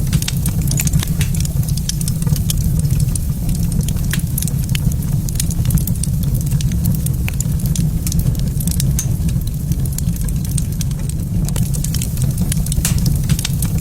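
Wood fire crackling in a fireplace, with many small sharp pops over a steady low rumble.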